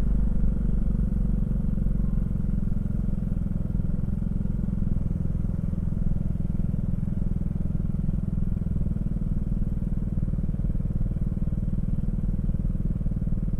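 Honda Fusion scooter's 250 cc single-cylinder engine running at a steady pace, a low, even exhaust drone that does not rise or fall.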